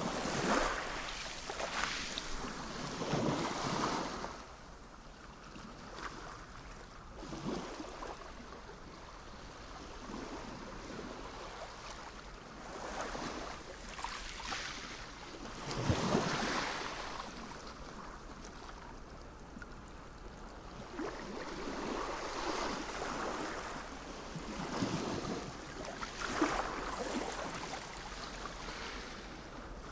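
Sea waves washing onto the shore, the surf swelling and falling back every few seconds over a steady wash.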